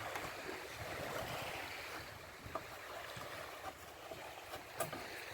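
Surf washing on a beach and wind on the microphone, a steady rushing hiss, with a couple of faint knocks in the middle and near the end.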